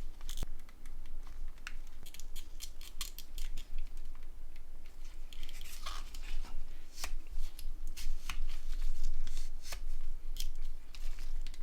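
Small screws being driven into a mobile phone's plastic housing with a precision screwdriver: irregular light clicks and scrapes of metal bit on screw heads and the casing.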